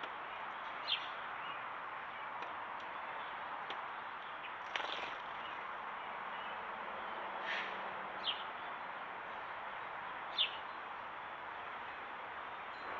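Four short, high bird chirps, each falling quickly in pitch and scattered several seconds apart, over a steady background hiss, with one brief click about five seconds in.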